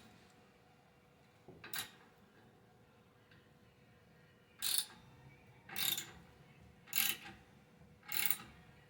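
A 3/8-drive ratchet with a 15 mm socket clicking in short strokes while tightening the exhaust tip's clamp: one stroke near two seconds in, then four more about a second apart from around halfway on.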